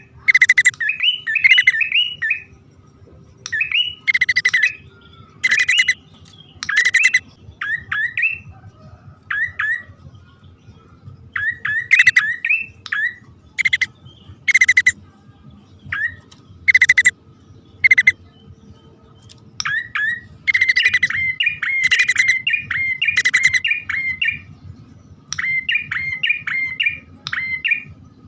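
Prinias (prenjak), a male and a female, calling in a lure recording: quick series of sharp, up-slurred chirps alternating with short harsh, rasping bursts, coming in bouts every second or two.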